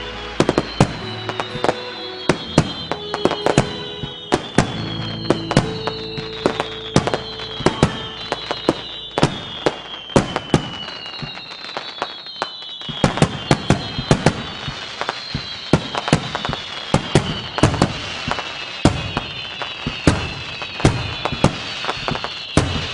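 Fireworks going off in rapid succession: many sharp bangs and crackles, with whistles that fall in pitch, one after another every second or two.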